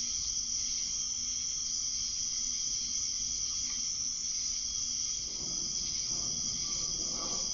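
Steady high-pitched hiss with a faint low hum. A soft, scratchy rustle comes in about five seconds in.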